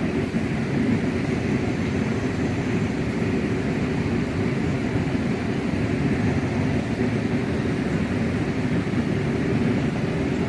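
River rapids rushing over rocks: a steady, unbroken roar of water.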